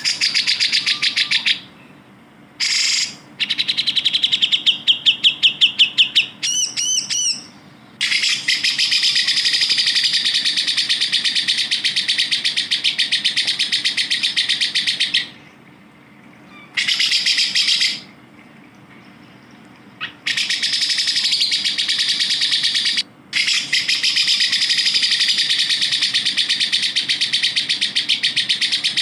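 Cucak jenggot (grey-cheeked bulbul) singing a fast, chattering song of rapidly repeated high notes. The song comes in short bursts at first, with a few quick sweeping notes, then in long runs of several seconds separated by brief pauses.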